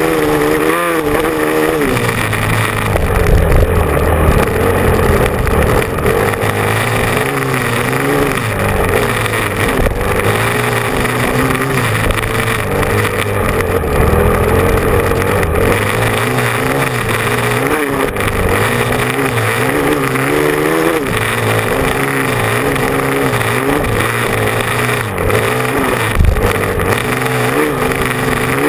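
Motocross motorcycle engine being ridden hard, its pitch rising and falling over and over with the throttle and gear changes, over a steady low rumble.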